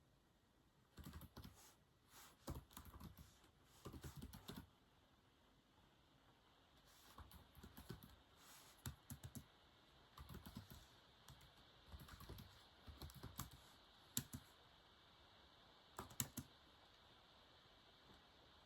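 Faint typing on a keyboard: short runs of quick keystrokes with pauses between them, falling quiet a couple of seconds before the end.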